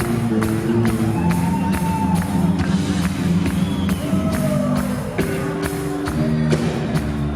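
Live band playing a pop-rock song, with held chords and a steady drum beat; a voice holds a couple of long sliding notes over it.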